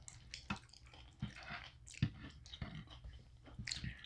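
Close-up mouth sounds of eating: wet chewing with scattered smacks and crunches, Taco Bell bean burrito and nachos being chewed into the microphone.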